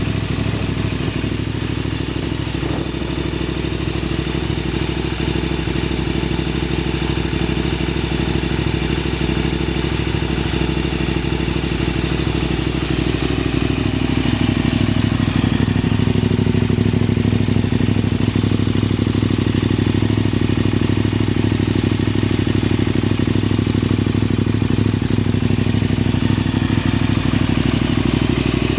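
KTM 990 Super Duke's V-twin engine running steadily at low revs through a Yoshimura aftermarket exhaust, with no sharp revving. About halfway through its note shifts slightly and grows a little louder.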